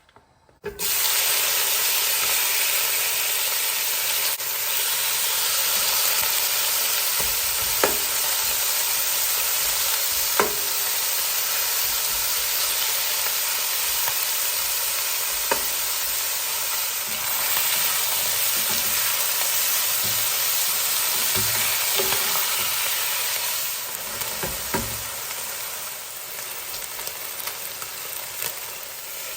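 Marinated chicken pieces sizzling in hot oil in a pan. The frying starts suddenly as they go in and runs as a steady hiss. A few sharp utensil clicks against the pan are heard while it is stirred, and it grows quieter near the end.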